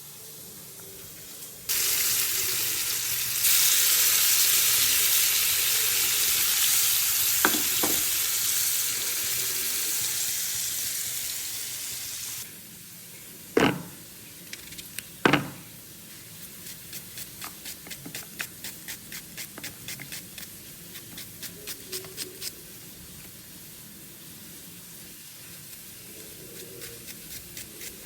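Food dropped into hot oil in a pan, sizzling loudly from about two seconds in; the sizzle drops sharply a little before halfway. A few sharp knocks follow, then a spatula stirring and scraping the pan in a steady rhythm of about two strokes a second.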